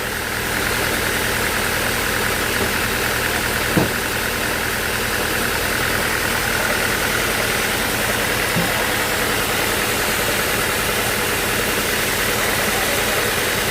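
Sawmill machinery running steadily, a continuous mechanical hum with a short knock about four seconds in.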